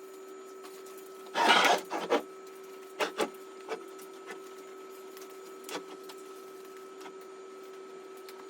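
A wooden couch being handled: one short loud scrape, then a few light knocks and creaks, over a steady low hum.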